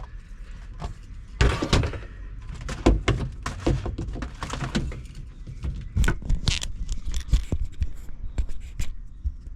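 Irregular knocks, clicks and rustles of hands handling electrical wire as it is pulled and fed through a hole in an RV wall.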